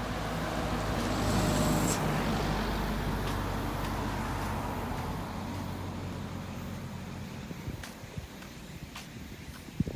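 A motor vehicle passing: its engine and road noise grow louder to a peak about two seconds in, then fade away. A few light clicks come near the end.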